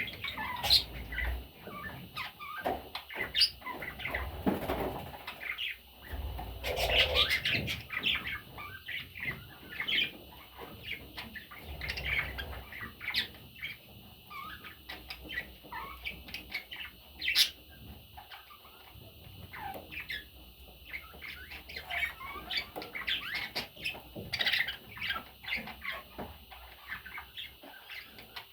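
Budgie chicks chirping in short, irregular peeps, with some scattered rustling of movement.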